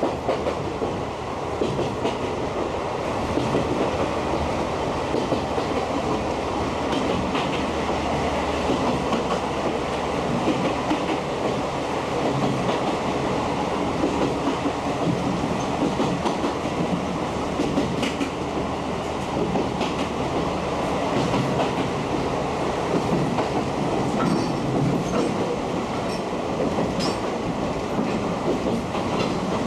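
Katakami Railway passenger coach Hohafu 3002 running, heard from inside with the windows wide open: a steady rumble of wheels on rail, with a clickety-clack of rail joints now and then.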